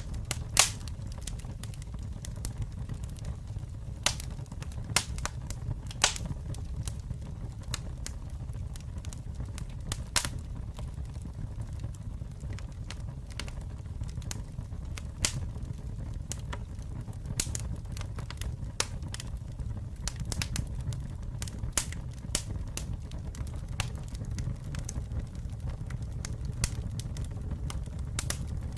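Wood fire burning with a steady low rumble and irregular sharp crackles and pops, a few louder snaps standing out among them.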